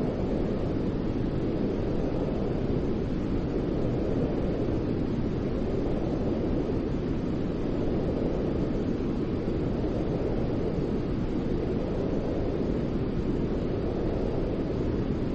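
Steady white noise, weighted to the low end so it sounds like a deep, even hiss.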